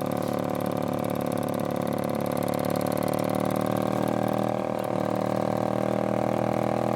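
A 2000 Pontiac Grand Am's heater vent making a steady, many-toned whirring hum with the vents shut off, getting slightly louder from about three seconds in.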